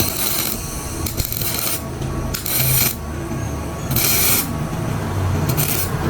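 About five separate strokes of a hand tool rasping or scraping against a hard surface, each lasting roughly half a second, over a steady low hum.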